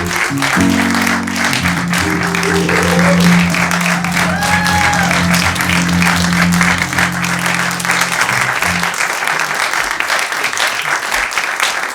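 Audience applauding over music with sustained low chords; the music stops about nine seconds in while the clapping goes on.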